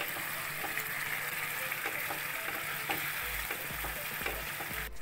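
Tomato-and-spice masala sizzling in a hot pan while a silicone spatula stirs it: a steady frying hiss with small scraping ticks.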